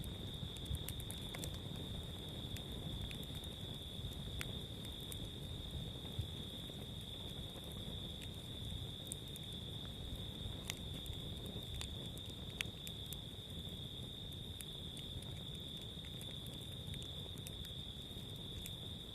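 Campfire crackling with scattered sharp pops, over a steady high-pitched insect trill and a low rumbling noise.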